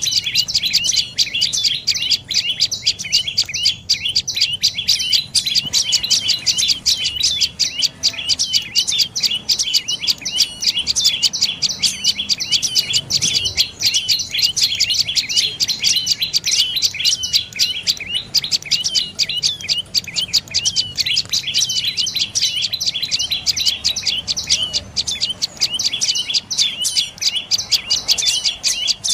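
Dark-necked tailorbird calling: a fast, unbroken series of short, sharp, high chirps, several a second.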